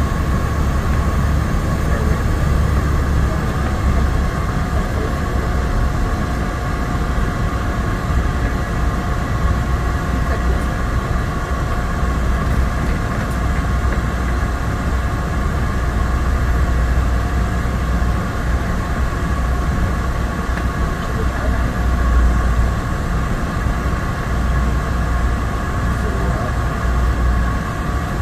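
Cessna 208 Caravan's single PT6A turboprop engine and propeller heard inside the cabin: a loud, steady low drone with a steady whine above it.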